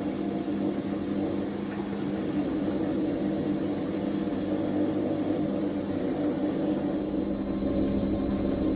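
Fisher & Paykel MW059NZ washing machine running through its darks wash cycle: a steady motor hum with a low rumble that grows a little louder near the end.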